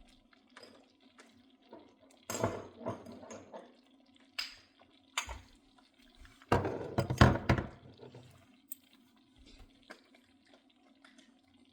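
Kitchen clatter of utensils and containers being handled at the stove: two bursts of knocks and scrapes, the louder one about seven seconds in, with scattered clicks between, over a steady low hum.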